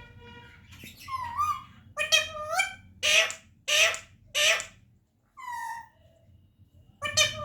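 Pet parrot giving a string of loud, harsh squawks and screeches, about seven in quick succession, some rising and falling in pitch.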